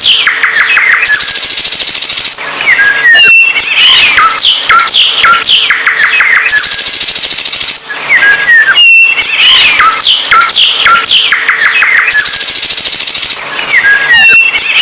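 A songbird singing loudly and without pause: quick down-slurred whistles, rapid trills and high buzzy passages. The same song sequence repeats about every six seconds, as in a looped recording.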